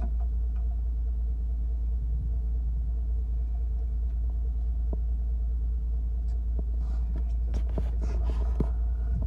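Steady low rumble of a fishing boat's engine, with a faint steady hum over it and scattered clicks and knocks, more of them near the end.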